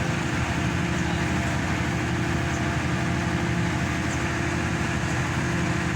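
Engine of a hydraulic static pile driver running steadily, a constant hum with an even whine over it.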